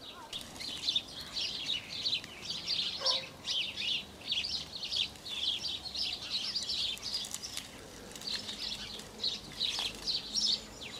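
Small songbirds chirping and twittering, many short high calls overlapping without a break.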